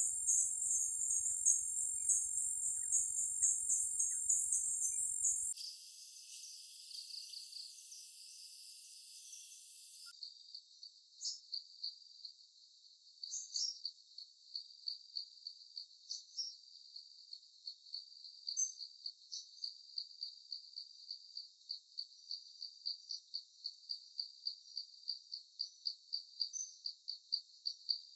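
Insects chirping in the high register. A loud dense chorus for about five seconds gives way to a quieter stretch, then from about ten seconds in a single steady chirp repeats about two to three times a second.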